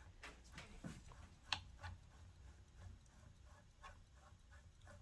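Faint, irregular light clicks from a Kenmore 148.12210 sewing machine's mechanism as it is turned over slowly by hand, with one sharper click about one and a half seconds in.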